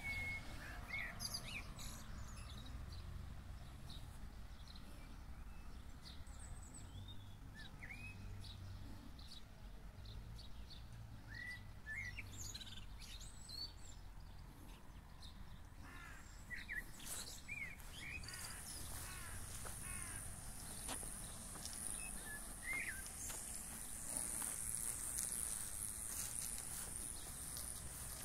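Small birds chirping and calling in short, scattered notes, over a faint low rumble. About two-thirds of the way in, a steady high-pitched hiss or buzz sets in and carries on.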